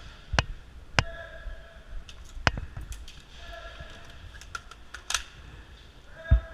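Scattered sharp clicks of airsoft shots and BB hits during a close-quarters game. Three stand out within the first two and a half seconds, followed by fainter ticks and a few further clicks.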